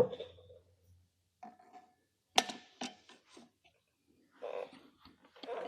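A few sharp clinks and knocks of metal parts and tools being handled and set down on a bench. The loudest comes a little before halfway, followed quickly by two or three lighter ones, with faint rustling near the end.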